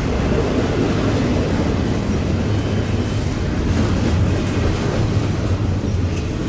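Double-stack intermodal well cars of a CSX freight train rolling past: a steady rumble of steel wheels on rail.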